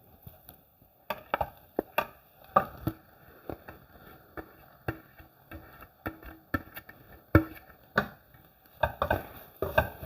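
Irregular knocks, taps and scrapes of a spoon or spatula against a pan as grated carrot is added and stirred into a sautéed onion and spice mixture.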